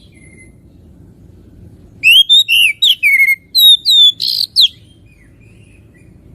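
Oriental magpie-robin (kacer) singing: after a short quiet, a fast burst of about ten loud whistled notes sliding up and down, with one short harsh buzzy note near the end.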